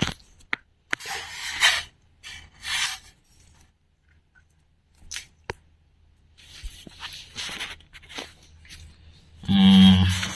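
An owl hissing in short breathy bursts, with a few sharp clicks between them; the hissing is the angry owl's warning. A strong, pitched, voice-like sound comes near the end.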